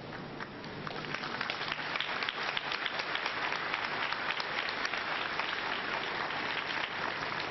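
A congregation applauding, with many hands clapping in a dense, steady patter that builds up about a second in.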